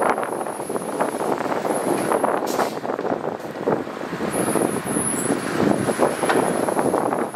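Heavy earthmoving machinery working soil: a dense, irregular clatter of knocks over a steady rumble, with a faint high whine that comes and goes. A brief hiss comes about two and a half seconds in.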